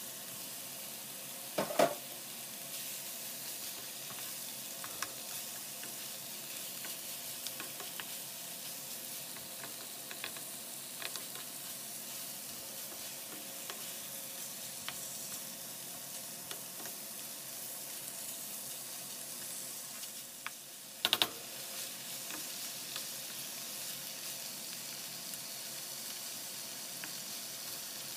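Pork spare ribs and chopped onion sizzling in oil in a frying pan while being stirred with a wooden spatula, with a couple of sharp knocks against the pan about two seconds in and again about twenty-one seconds in.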